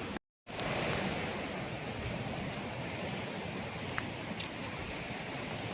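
Steady rushing outdoor noise, like wind or flowing water, with no clear single source. It cuts out to total silence for a split second about a quarter second in.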